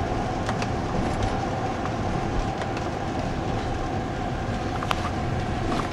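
Steady road and engine rumble inside a moving car's cabin, with a faint steady hum and scattered light ticks.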